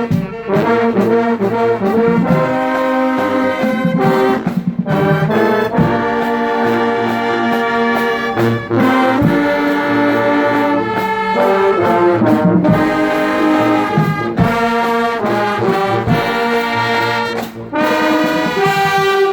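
Marching band playing a tune, led by trombones and trumpets, with drum hits.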